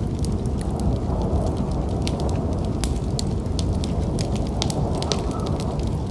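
Wood fire in a fireplace crackling, with many small sharp pops, over a steady low rumble of snowstorm wind.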